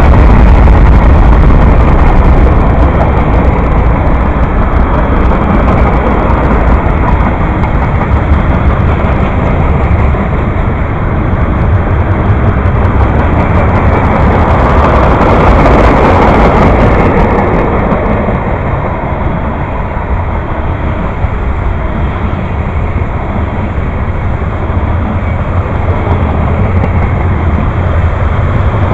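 A train passing close by: a loud, steady rumble of wheels on the rails, swelling briefly about halfway through.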